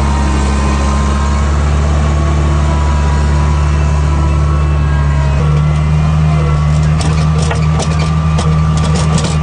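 A motor vehicle engine running steadily at a low, even pitch; its note steps up slightly about five and a half seconds in. A run of sharp clicks or rattles comes near the end.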